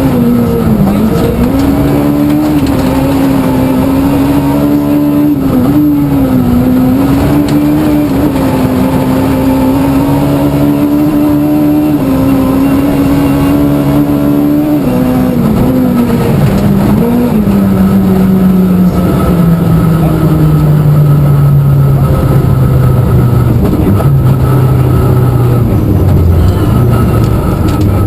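Rally car engine at high revs from inside the car, with brief dips as gears are changed. From a little past halfway the revs fall steadily and keep falling as the car slows down, typical of easing off toward a stage finish.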